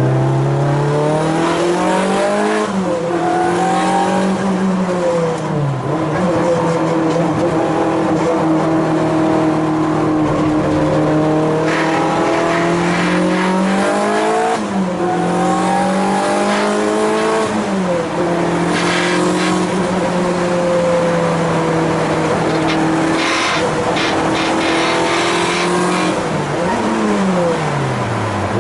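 Race car engine being driven hard around a circuit: the engine note climbs under acceleration, holds through long stretches and drops sharply several times for braking and gear changes.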